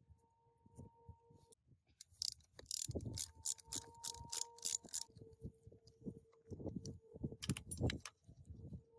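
Metal parts and tools clinking and knocking against each other in hand work, with a dense run of sharp clinks from about two to five seconds in and another brief one near the end. A faint steady tone runs under it.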